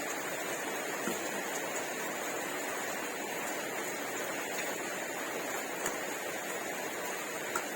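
Steady background hiss with a few faint clicks, about one second in, near six seconds and near the end.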